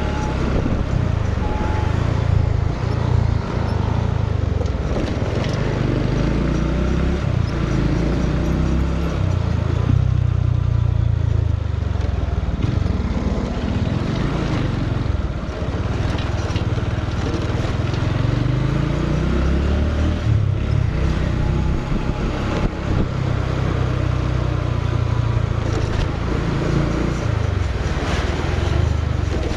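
Motorcycle engine running under way, its pitch rising and falling every few seconds with the throttle, over a steady rush of noise.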